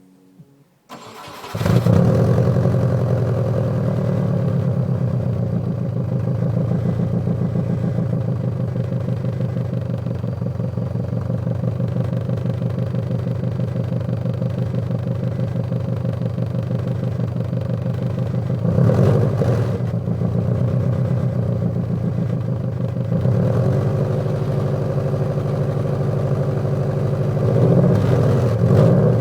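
Subaru Forester turbo's flat-four boxer engine starting about a second in, then idling with a pulsing exhaust rumble. Short throttle blips raise the revs briefly about two-thirds of the way through and again near the end.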